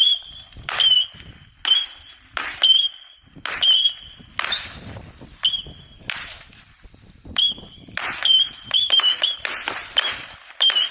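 A 100-shot saturn missile battery firing in quick succession: each missile goes off with a sharp crack and a short whistle, about two shots a second, coming closer together in the second half.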